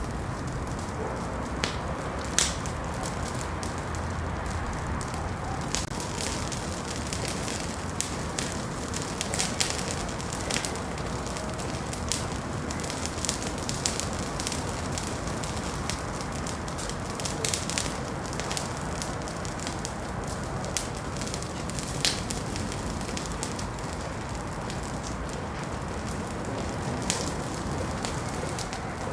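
Wood fire burning in a fireplace: a steady low rush with irregular sharp crackles and pops, a few louder snaps among them.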